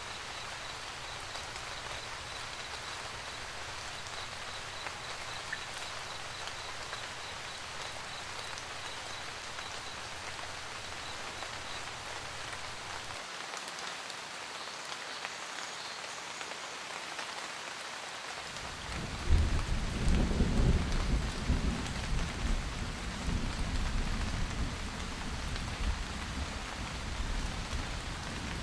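Steady rain pattering on a roof. About two-thirds of the way in, a thunderclap breaks out and then rumbles on for several seconds.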